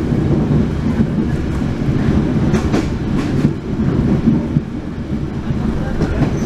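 Steady rumble of a moving passenger train heard from inside the coach, its wheels running on the rails, with a short run of sharp clacks over the rail joints a little before halfway through.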